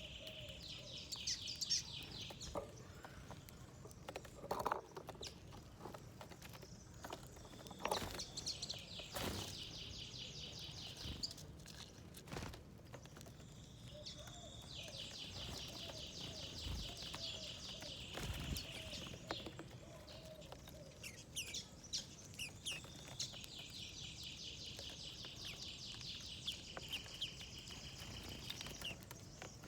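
A small songbird singing long, fast trills of high notes, four times with short gaps between, over scattered sharp taps and knocks.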